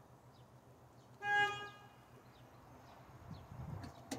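Narrowboat's horn sounding a short toot about a second in, then a second, longer toot starting right at the end.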